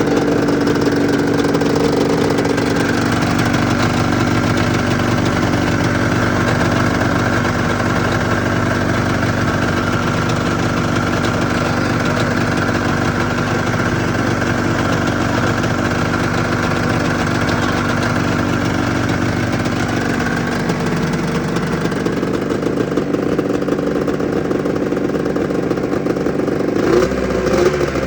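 1996 Arctic Cat ZRT 600's three-cylinder two-stroke engine idling steadily on a newly rebuilt fuel pump, freshly primed. The idle note shifts slightly about two-thirds of the way through, and the sound turns briefly uneven near the end.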